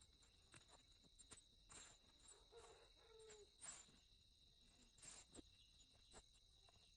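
Near silence: a faint, steady high-pitched tone with scattered soft clicks and taps.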